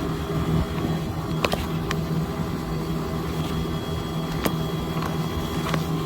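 Air conditioner unit running with a steady low machine hum, with a few sharp clicks.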